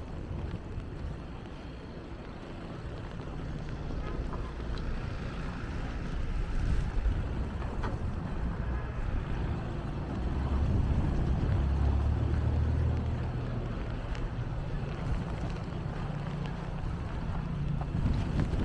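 Low rumble of wind buffeting the microphone, mixed with passing street traffic, swelling louder about ten seconds in and easing off a few seconds later.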